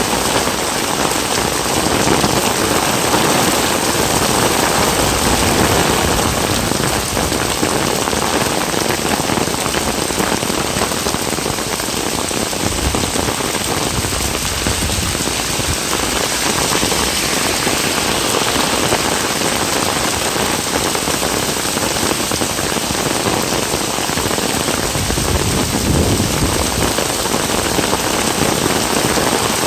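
Very heavy rain falling steadily.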